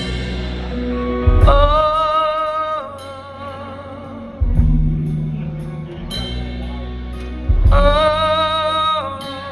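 Live rock band playing a slow, gospel-tinged song. A high note with vibrato is held twice, each time for about a second, over a repeating bass and drum pattern.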